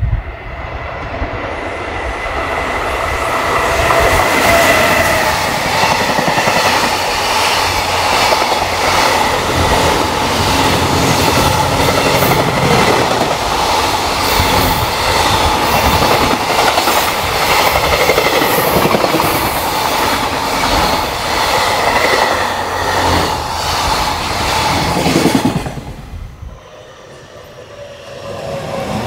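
A train running past at speed, a loud steady rumble with the wheels clattering over rail joints and a few held whining tones, lasting about 25 seconds before dropping off sharply; another train starts to be heard approaching near the end.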